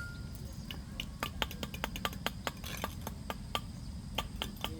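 An irregular run of short, sharp clicks or light taps, several a second, over a steady low rumble.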